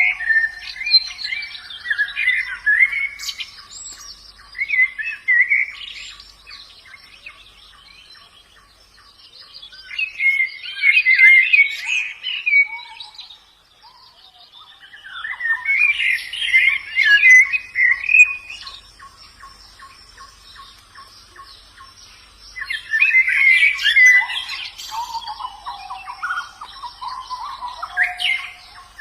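White-eye (pleci) birds singing in four bursts of rapid, jumbled twittering with pauses of a few seconds between them. A steady fast ticking and a faint steady tone run underneath.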